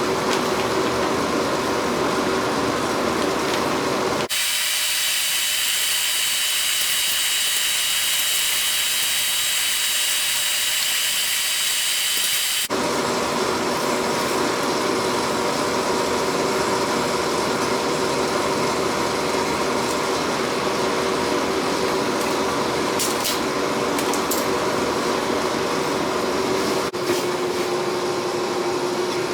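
Steady running of a power tool in a metalworking shop. About four seconds in the sound switches abruptly to a brighter, hissier tone, and it switches back about eight seconds later.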